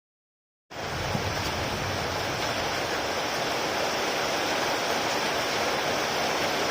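Heavy rain falling in a steady, even hiss, cutting in suddenly just under a second in after dead silence.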